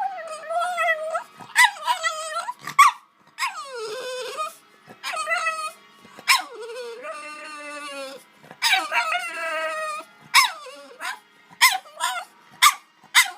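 French bulldog whining and yipping in a string of pitched, wavering cries, with short sharp yips coming quickly one after another near the end.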